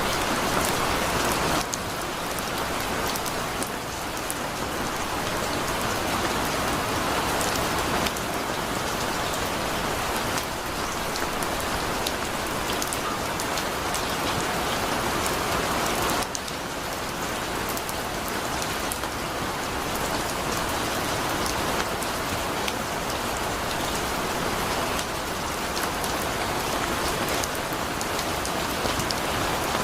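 Heavy rain falling steadily: a dense, even hiss with scattered sharp taps of individual drops. The downpour eases slightly twice, about two seconds in and again about halfway.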